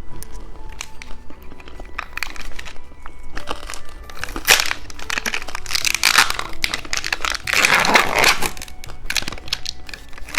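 Close-miked crunching and crackling of hard candy being eaten and handled: a string of sharp cracks and rustling bursts, loudest a little past the middle, over faint background music.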